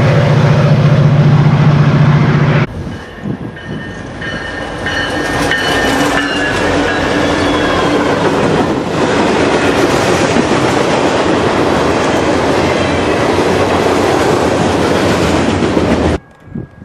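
A diesel locomotive's engine running hard as a Metra commuter train approaches, cut off abruptly about three seconds in. Then a CSX freight train of tank cars and covered hoppers rolls past close by: a steady roar of wheels on rail with clickety-clack and faint squealing tones from the wheels.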